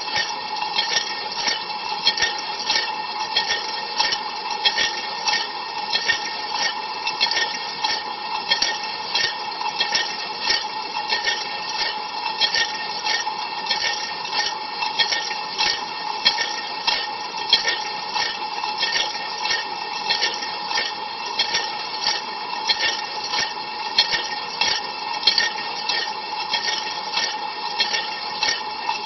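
Inside an Ariston LV 46 A IX dishwasher during a cold-water rinse: water spraying and splashing steadily, with sharp splashes recurring about twice a second over a steady hum.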